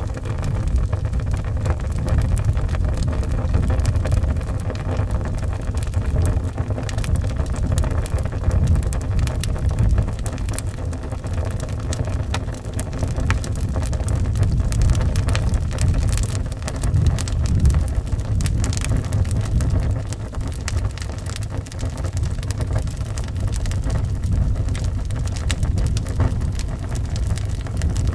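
Wood fire crackling, with frequent small irregular pops, over a steady low rumble of howling wind.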